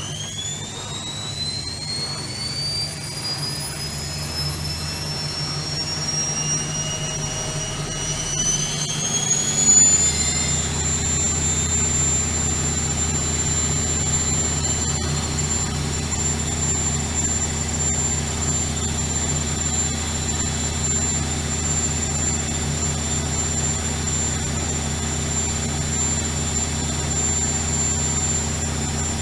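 Bauknecht WAK 5750 G washing machine's brushed motor spinning up the drum on a spin cycle: a high whine rising in pitch for about ten seconds, then holding steady at speed over a low hum. The motor runs on freshly fitted carbon brushes.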